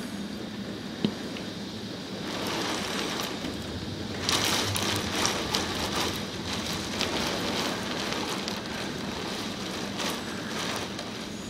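Thunderstorm of heavy rain and strong wind, with a steady rush and much crackling spatter. A gust swells about four seconds in and stays louder for several seconds. A single sharp click comes about a second in.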